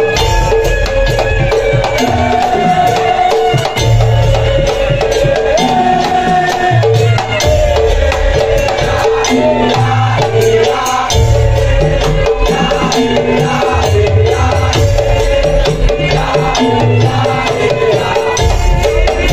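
Madurese daul (tong-tong) ensemble playing: a wavering melody over dense clattering percussion, with deep drum beats recurring every second or two.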